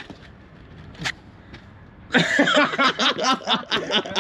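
Low background noise with a single sharp click about a second in, then a person talking for the last two seconds.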